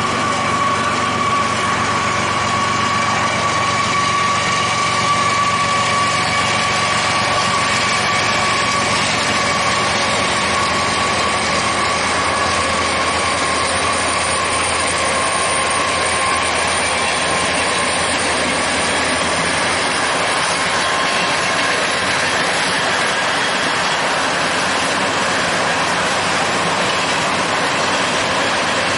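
A freight train rolling past close by: a loud, steady roar of wheels on rail with a thin, steady whine running through it.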